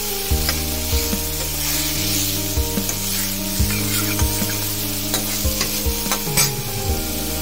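Chopped onion and whole spices sizzling in hot mustard oil in a stainless steel kadai, stirred with a steel spoon that scrapes and taps against the pan several times, most sharply about six seconds in.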